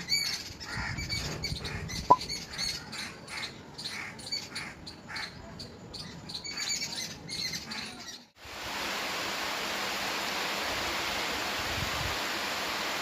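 Birds chirping and calling in quick short notes, with one sharp snap about two seconds in; after about eight seconds the sound cuts abruptly to steady rain.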